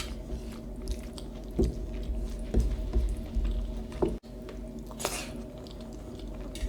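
Close-miked chewing and wet, squishy mouth sounds of someone eating chicken curry and rice, with scattered short smacks and a brief hiss about five seconds in.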